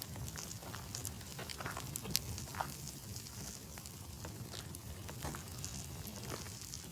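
Campfire burning, with irregular crackles and sharp pops from the burning wood; the sharpest pop comes about two seconds in.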